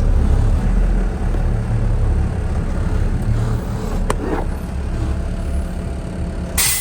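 Heavy diesel machinery engine running steadily with a low rumble, with a sharp click about four seconds in and a short burst of hiss just before the end.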